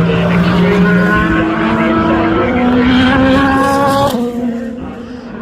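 Race car engine accelerating hard, its pitch climbing in steps through upshifts, then breaking off about four seconds in.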